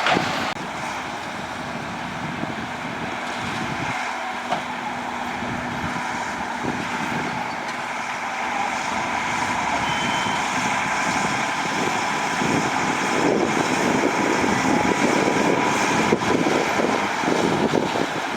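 Heavy earthmoving machinery at work, its diesel engines running steadily and growing louder about twelve seconds in.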